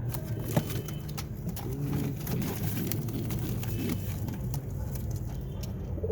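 Domestic pigeons cooing low, with scattered sharp clicks and taps, the loudest about half a second in.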